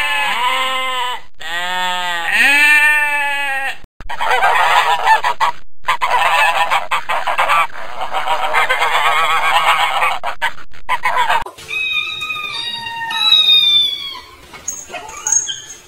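Sheep bleating twice in long, wavering calls. Then, after a brief cut, a dense chorus of many animals calling over one another. Near the end comes a series of short, high cat meows.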